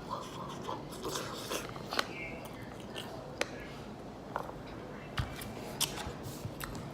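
Close-miked eating: chewing and wet mouth sounds with sharp clicks at irregular intervals.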